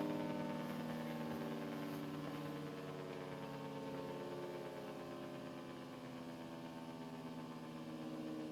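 Half-scale Hurricane siren with a reverse-wired blower winding down: a chord of several steady siren tones slowly sliding lower in pitch and fading.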